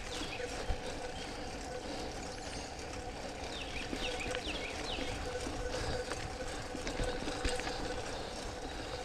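Mountain bike rolling along a dirt trail: tyre and wind rumble with a steady hum. Birds chirp, with a quick run of falling chirps about four seconds in.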